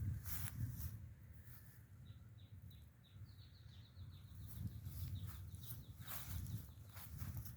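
A bird calling a quick series of short, high, repeated notes, about three a second, over a low rumble, with scattered rustles and clicks.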